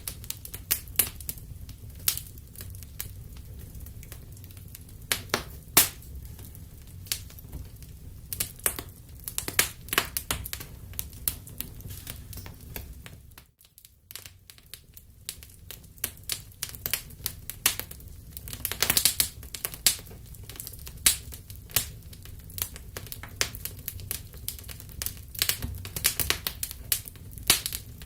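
Wood fire crackling in a fireplace: irregular sharp pops and snaps over a low steady rumble, which drops away for a moment about halfway through.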